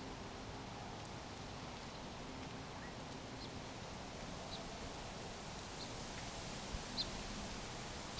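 Faint, short bird chirps every second or so over a steady outdoor background hiss.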